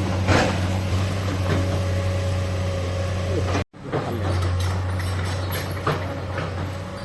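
Excavator's diesel engine running steadily, with a few knocks. The sound cuts out for an instant about halfway through, then the engine carries on.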